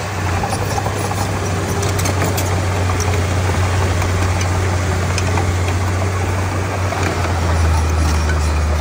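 Komatsu D31P bulldozer's diesel engine running steadily with a low hum. Near the end it deepens and gets a little louder.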